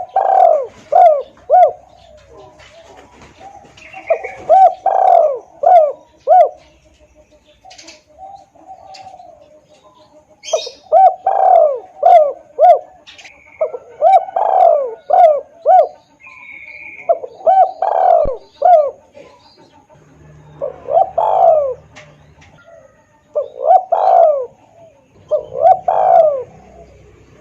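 Spotted dove (tekukur) cooing loudly in repeated phrases. Each phrase is a run of several short, clear coos, and the phrases are separated by pauses of a few seconds.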